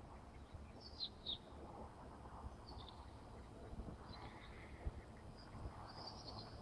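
Faint bird chirps: two quick falling chirps about a second in, then a few more short chirps scattered through the rest, over a steady low outdoor rumble.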